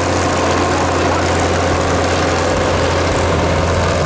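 Heavy tractor engine running steadily with a deep, even hum and no revving.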